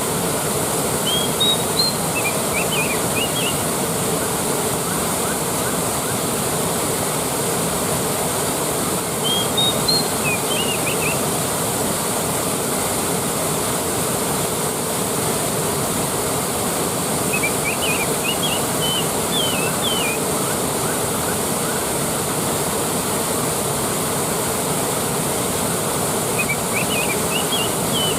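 Waterfall rushing steadily. A bird sings short high chirping phrases four times, about every eight seconds.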